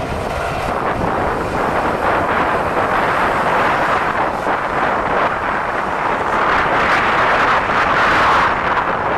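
Jet airliner engines roaring as a plane passes, swelling louder toward the end, with wind buffeting the microphone.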